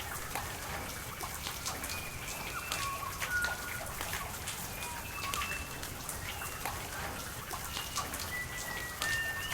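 Rain falling, with many sharp drop impacts over a steady hiss. Short high whistled notes at changing pitches sound every second or so.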